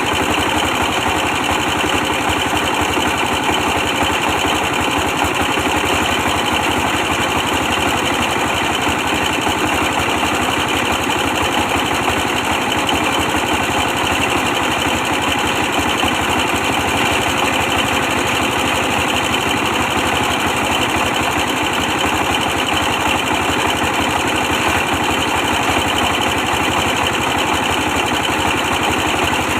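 A 24 hp diesel engine driving a brick press, running steadily at an even level throughout.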